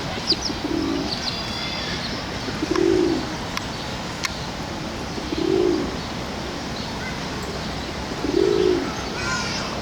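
Low cooing, four soft coos about three seconds apart, typical of a pigeon, with short high bird chirps near the start and again near the end.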